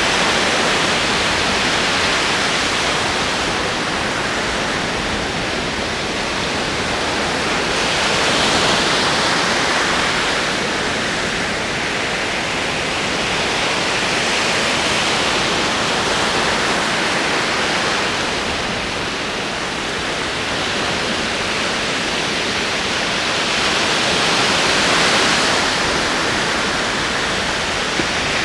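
Ocean waves rolling onto a shore: a steady wash of surf that swells and eases every several seconds.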